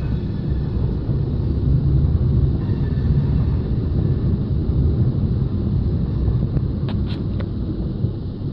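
Freight train tank cars rolling past close by: a steady low rumble of steel wheels on the rails, with a few short clicks about seven seconds in.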